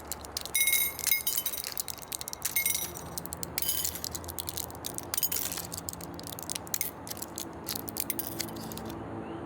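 A rapid run of light clinks and clicks, some with a brief ringing tone, thinning out after about five seconds.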